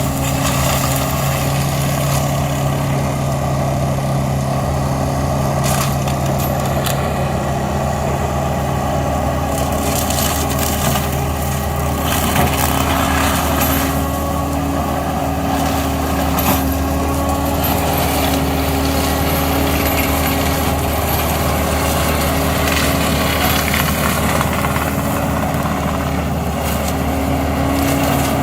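Carraro 100 HP reversible tractor running steadily, driving a W Forrest 1700 forestry mulcher. The steady engine drone has scattered sharp knocks and crackles over it.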